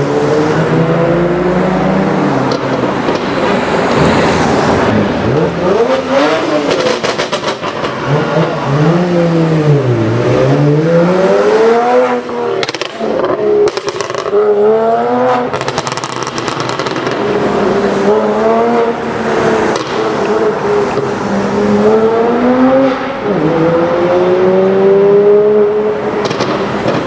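BMW 1M's twin-turbo straight-six through a loud aftermarket exhaust, revving up and falling back again and again, its pitch rising and dropping. Rapid crackles and pops come in several clusters as the revs fall.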